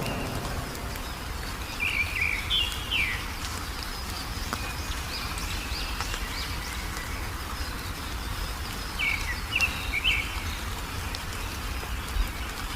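A songbird giving two short bursts of quick chirps, about seven seconds apart, over a steady low background rumble.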